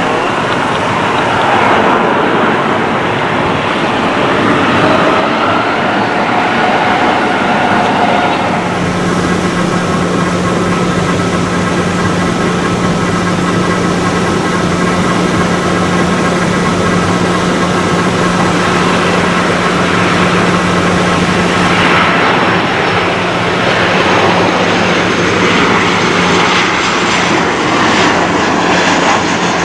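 Airliner engine noise throughout: first a turboprop, the ATR 72-600, with a roar and gliding tones. About nine seconds in this gives way to a Boeing 737-800's jet engines, running loud with a steady low hum and a high whine.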